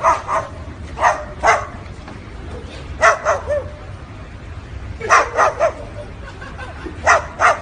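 Barking: short, sharp barks in quick pairs and triplets, repeating about every one to two seconds.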